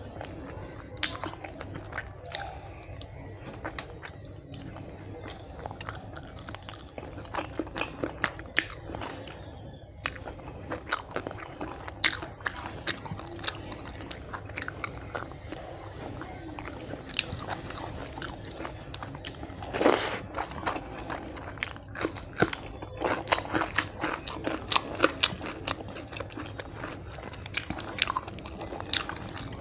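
Close-miked mukbang eating: a person chewing hand-fed mouthfuls of rice and fish curry, with wet mouth smacks and frequent crunches. The loudest crunch comes about two-thirds of the way through.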